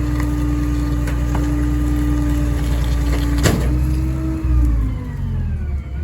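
Rear-loader garbage truck running its hydraulic packer on bulk trash, the engine held at raised revs with a steady pump whine. A sharp crack comes about halfway through, then the engine and whine fall away as the packer cycle ends.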